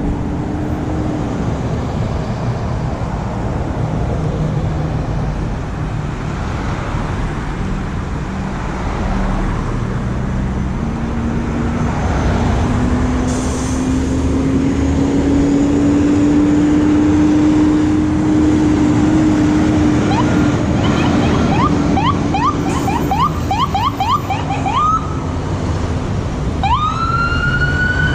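Emergency vehicle passing with traffic and a low engine drone that slowly rises and falls, then about twenty seconds in an electronic siren starts a fast yelp, several sweeps a second. Near the end it changes to a slow wail that rises, holds and starts to fall.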